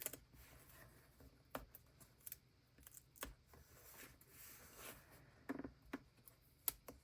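Near silence, broken by a handful of faint, short clicks and taps from cutting and handling paper and tape.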